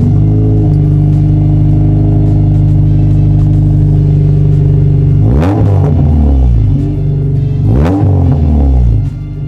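Honda S2000's 2.2-litre four-cylinder idling steadily through a CLEiB racing muffler. Two quick throttle blips about five and a half and eight seconds in send the revs up and back down to idle each time.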